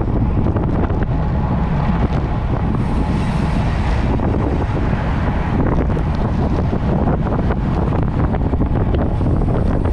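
Wind rushing over the microphone of a camera riding along on a road bike: a loud, steady low rumble, with scattered small clicks and rattles.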